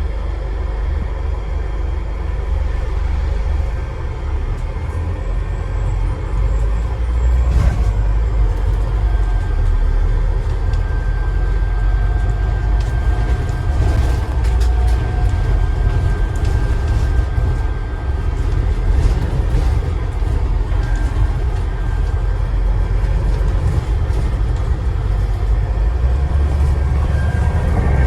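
Scania Enviro 400 double-decker bus heard from inside the upper deck: steady low diesel engine rumble and road noise, with a faint steady turbo whistle coming in about ten seconds in and again near the end, and a few brief rattles.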